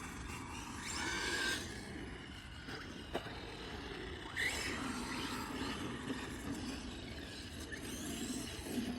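Small electric motor of a Losi Promoto RC motorcycle running outdoors, whining up briefly twice. There is a sharp click about three seconds in.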